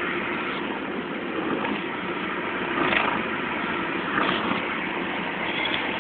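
Steady car engine and road noise heard from inside the moving car's cabin, with brief louder spots about three and four seconds in.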